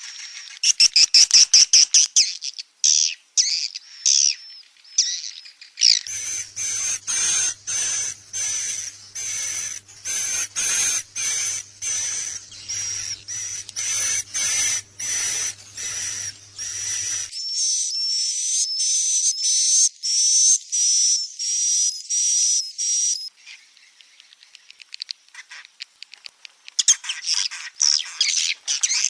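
Swiftlet lure recording of chick and adult edible-nest swiftlet calls: shrill, high chirps and twittering trills, repeated in quick runs. Through the middle the chirps come about two a second over a faint low hum, it quietens briefly later on, then the dense twittering returns near the end.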